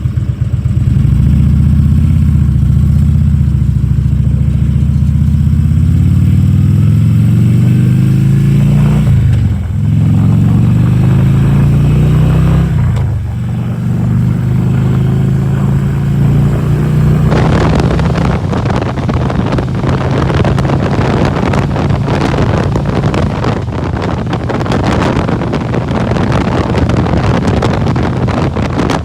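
Harley-Davidson Electra Glide Ultra Classic Limited's V-twin engine accelerating through the gears, its pitch climbing and then dropping at two upshifts about nine and thirteen seconds in, before settling to a steady cruise. From about halfway on, loud wind rushing over the microphone at road speed covers the engine.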